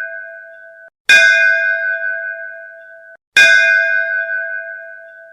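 A metal bell struck twice, about two seconds apart. Each strike rings with a clear, bright tone that fades and then stops sharply just before the next strike. Before the first strike, the fading ring of an earlier one ends about a second in.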